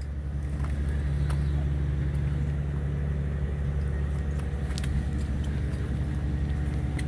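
A fishing boat's engine running steadily with a low, even hum, and a few faint clicks over it.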